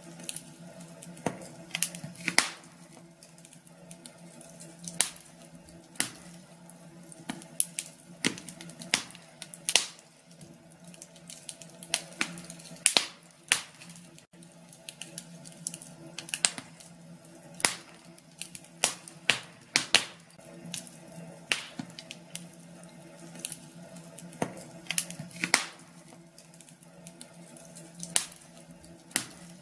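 Wood fire crackling in a fireplace: irregular sharp snaps and pops, a few of them louder, over a faint steady low hum.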